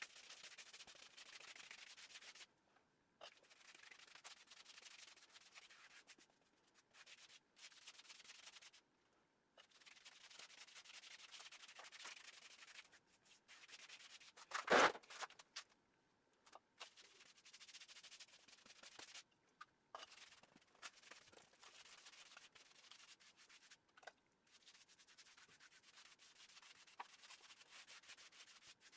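Bristles of a large paint brush scrubbing primer into a rough masonry and mortar wall: faint scratchy strokes in stretches, with short pauses between them. One brief louder knock about halfway through.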